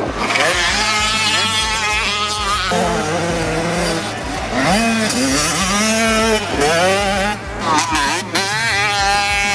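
Two-stroke 85cc motocross bikes revving hard, their engine pitch repeatedly rising and dropping with throttle and gear changes, more than one engine at once.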